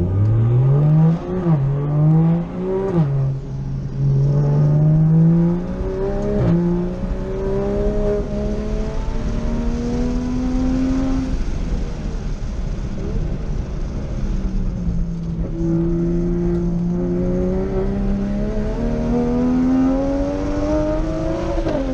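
Toyota GR Supra (A90) time attack car's engine heard from inside the cabin, accelerating hard with quick upshifts: the pitch climbs and drops back three times in the first seven seconds. It then pulls steadily higher, eases off about halfway through, holds, and climbs again in the last few seconds.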